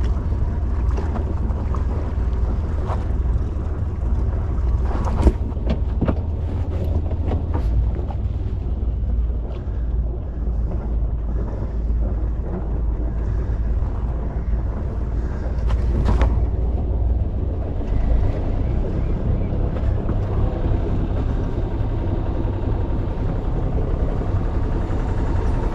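A sailing yacht's engine running steadily at low speed, with wind buffeting the microphone and a few sharp knocks, the loudest about five and sixteen seconds in.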